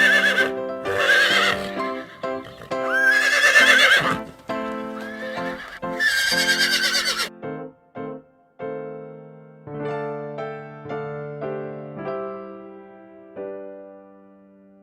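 A horse whinnying, about four times in the first seven seconds, over light piano music. After that the music plays on alone and fades.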